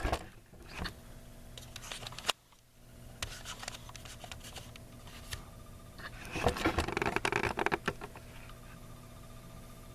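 Hands working on a garage door opener's wiring and logic board: scattered small plastic clicks and rustling, with one sharp click about two seconds in and a busier patch of clicking and rustle past the middle, over a faint steady hum.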